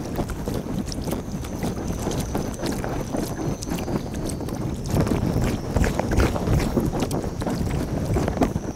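Kayak paddling sped up in time lapse: quick paddle splashes and water sloshing against the hull, with wind buffeting the microphone. A thin, steady high tone runs above the noise.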